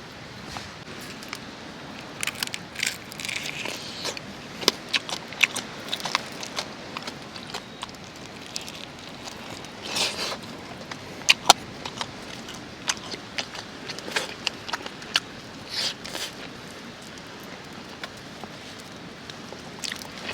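Light rain hissing steadily, with irregular sharp clicks and crackles scattered through it.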